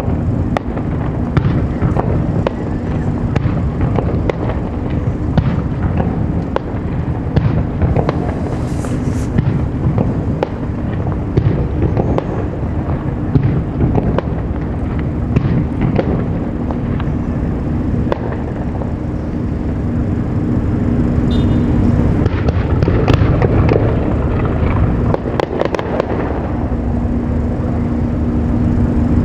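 Aerial fireworks shells bursting one after another in quick, irregular succession over a dense rolling rumble, with a steady low hum underneath.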